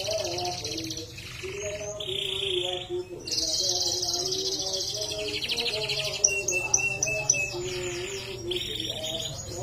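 Domestic canary singing vigorously: long, fast rolling trills with short breaks, and a quick series of sharp, clipped notes a little past the middle.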